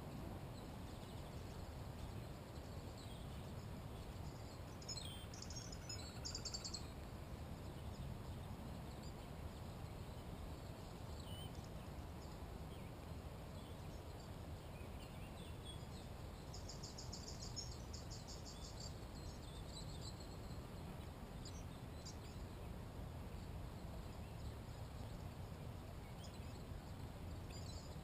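Songbirds singing: a few short, high, rapidly repeated trill phrases, one about five seconds in and a longer one around the middle, over a steady low background rumble of outdoor noise.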